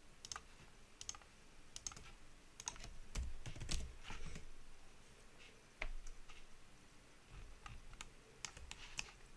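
Computer keyboard keystrokes, faint irregular clicks spread out over several seconds, with a soft low thud about three and a half seconds in.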